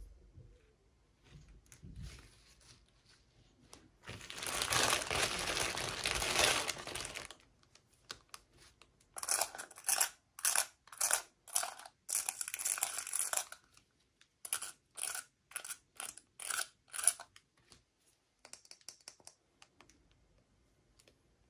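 Packaging being torn open: one long rip of about three seconds, then a run of short crinkling rustles, about two a second.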